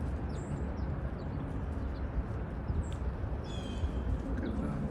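Small birds chirping in short, scattered notes, with one longer call about three and a half seconds in, over a steady low outdoor rumble.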